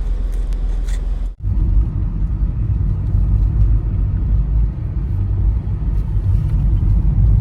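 Steady low road rumble inside a moving car's cabin, with a brief break about a second and a half in.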